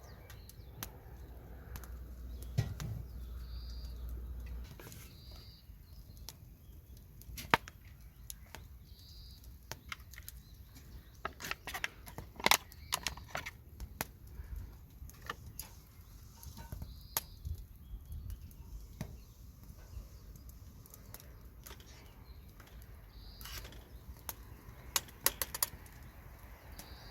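Irregular sharp clicks and taps, bunched in a few quick clusters, with short high bird chirps every few seconds.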